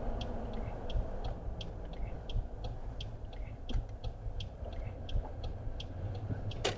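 Car's turn-signal indicator ticking evenly, about three clicks a second, over the low hum of the engine and road noise, with one louder sharp click near the end.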